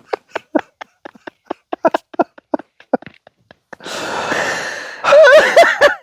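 A person laughing hard in quick short bursts, then a long wheezing breath and a loud, high laugh near the end.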